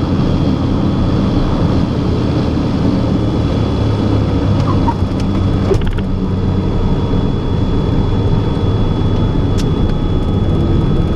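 Twin piston engines of a Cessna 421C running steadily, with a thin steady high whine over the drone. There are a couple of brief clicks, one about halfway through and one near the end.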